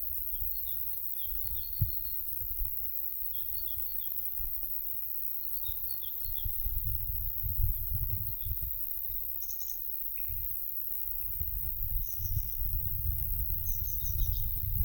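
Light summer wind buffeting the microphone in gusts, stronger from about halfway through, while small songbirds give short, repeated high chirping phrases in the background.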